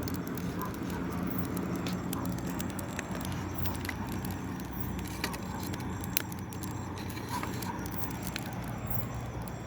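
Campfire crackling and popping, with many small sharp snaps and two louder pops about five and six seconds in, over a steady low hum.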